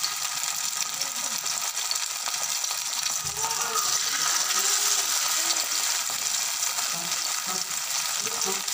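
Gram-flour-battered mushrooms sizzling steadily in hot oil in a frying pan, with a spoon moving them about partway through.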